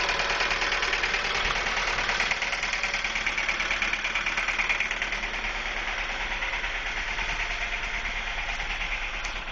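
Ford Focus petrol engine idling with a loud, rapid, diesel-like clanging knock from the engine, steady throughout and easing slightly near the end. The engine also shudders and burns rich, and a mechanic took the knock for a thrown connecting rod.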